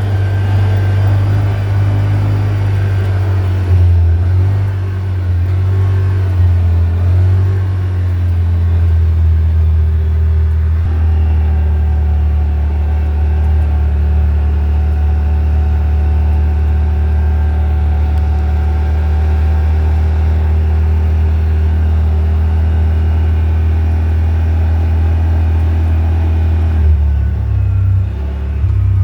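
A car's engine and road noise being driven, a loud low drone heard from inside the cabin. The engine note wavers for the first several seconds, then holds steady as if cruising, and changes briefly near the end.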